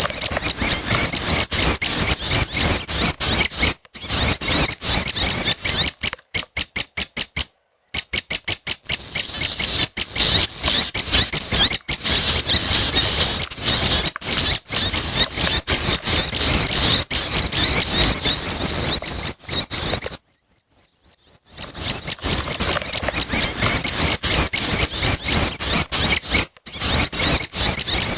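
Young prinia (prenjak) calling in rapid, high-pitched runs, broken by short pauses about 4 and 7 seconds in and a longer pause about two-thirds of the way through.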